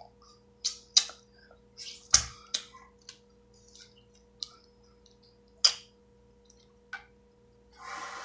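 Crab shell cracking and clicking as it is broken and picked apart by hand, a few sharp cracks a second or more apart, the loudest with a dull thud about two seconds in.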